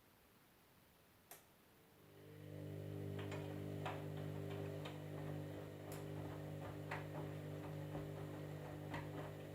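Candy EcoMix washing machine: after a single click, a steady low electrical hum starts up about two seconds in and holds, with a sharp tick roughly once a second on top.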